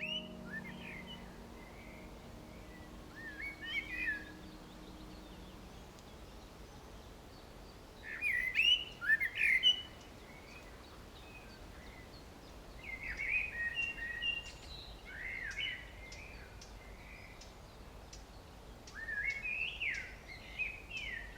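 Songbird singing in short bursts of quick chirping, warbling notes every few seconds, over a faint steady outdoor background.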